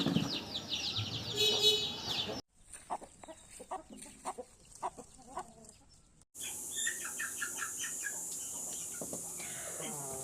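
Parrot-beak Aseel roosters and chickens clucking and calling. The sound comes in three short stretches with abrupt cuts about two and a half seconds in and about six seconds in; the first stretch is dense with high calls and the middle one is quieter.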